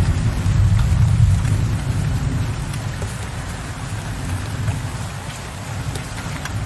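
Steady rain falling, with a low rumble of distant thunder that dies away over the first few seconds.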